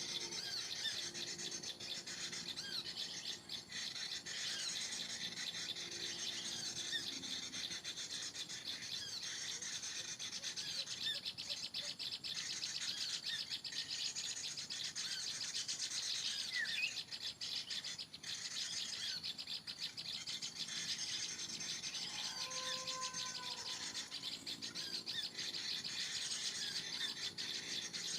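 Many small birds chirping and twittering in a dense, continuous chorus of short high calls, with a brief lower whistled note about two-thirds of the way through.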